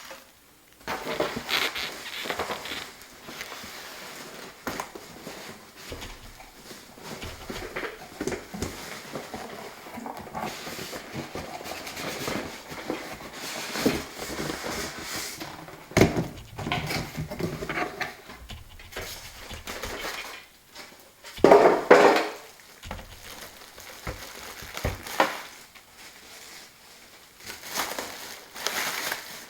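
Unpacking noises: plastic wrapping and packing material rustling and crinkling, with knocks and clatter as a small espresso machine and its parts are handled. The loudest burst of rustling comes about two-thirds of the way through.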